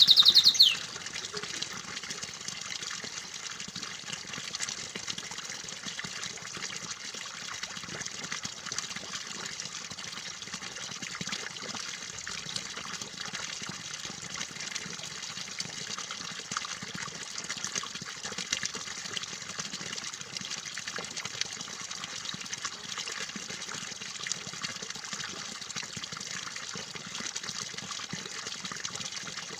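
Steady running water, an even trickling and splashing flow. A canary's song cuts off within the first second.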